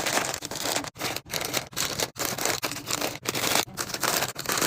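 Mini-fridge restocking sounds: packaged snacks and drinks being handled and set into the fridge, a run of short noisy handling sounds chopped into quick clips with sudden breaks between them.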